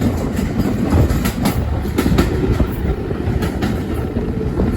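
Railway coach running along the line: a steady low rumble with sharp clicks as the wheels cross rail joints, several coming in quick pairs.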